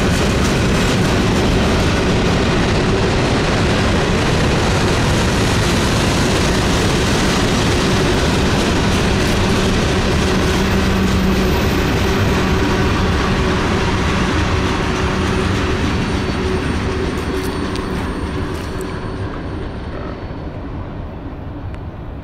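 Freight cars of a mixed freight train (tank cars, covered hoppers, gondolas) rolling past at close range, steel wheels running on the rail. The steady noise fades over the last several seconds as the end of the train goes by.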